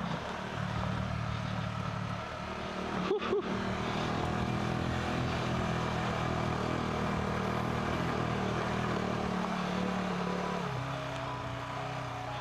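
KTM 390 Adventure's single-cylinder engine running steadily under way on a dirt trail, with a brief break in the sound about three seconds in and the engine note easing lower near the end.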